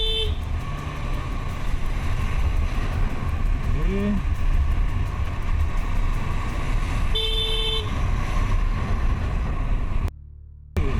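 Vehicle horn honking twice, a short toot at the start and a longer blast about seven seconds in, over a steady low road and wind rumble.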